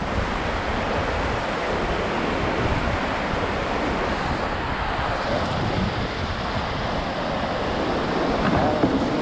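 Steady rush of river rapids, with wind noise on the microphone.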